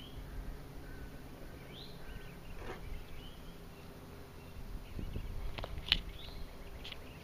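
Outdoor lake ambience with a few short, scattered bird chirps and a steady low background hum, and a sharp click about six seconds in.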